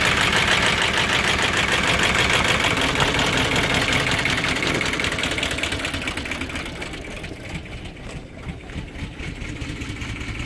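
Audi 4.2-litre V8 petrol engine (BAT code) idling, with the rattle and misfire that the owner puts down to its timing chains. It becomes quieter and duller about two-thirds of the way through.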